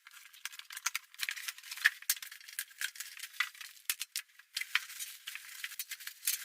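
Packaging being handled and unpacked: a rapid, irregular run of thin crinkling and rustling.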